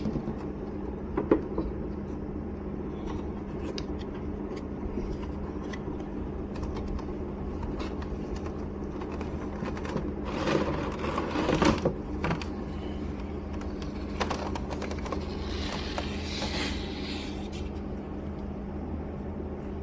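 A figure's cardboard packaging being opened by hand: scattered taps and clicks, then a louder rustling scrape about ten to twelve seconds in and a hissing rustle a few seconds later, over a steady low hum.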